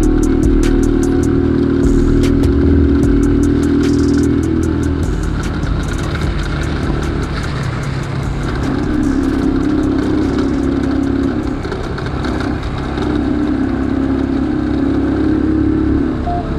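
Motorcycle engine running under way, its note easing off about four seconds in and picking up again twice.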